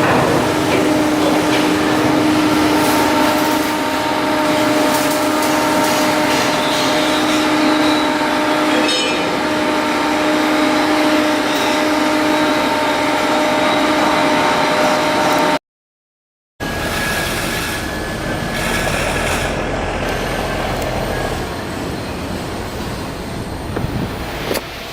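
Loud shipyard work noise: machinery running with a steady hum and dense clatter, broken off by a sudden cut about 15 seconds in, then a different machine noise with a thin high tone.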